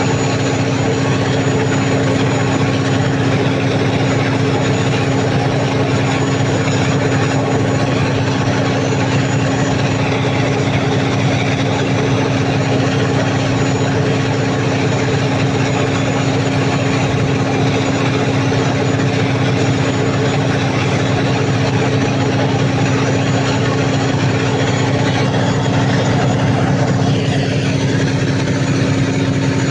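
Cummins KTA50 V16 turbocharged diesel genset engine running steadily at constant speed, freshly overhauled and under load test.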